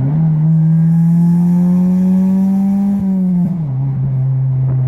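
Honda Del Sol's four-cylinder engine droning loudly through a cheap aftermarket eBay exhaust, its pitch rising steadily under throttle for about three seconds, then falling to a lower steady note. The muffler is too loud for a stock-type exhaust, which the owner blames on the eBay part.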